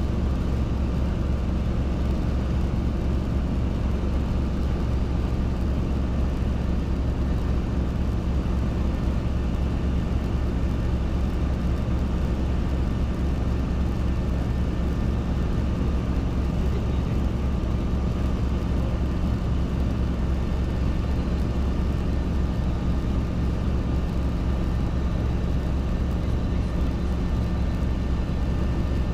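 Robinson R22 helicopter's piston engine and rotors running, a steady low drone that does not change.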